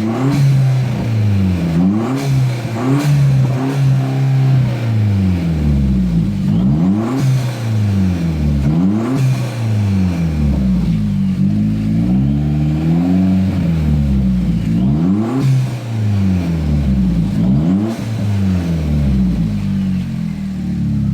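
2014 Chevrolet Cruze's 1.4-litre turbocharged four-cylinder, straight-piped off the turbo with no air filter, revved over and over in short blips. The pitch rises and falls every second or two, with a few sharp cracks along the way.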